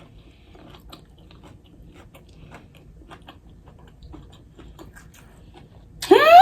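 Close-miked chewing and biting of food, faint soft crunches and wet mouth clicks. Near the end a woman's loud, high-pitched, drawn-out vocal exclamation of delight begins.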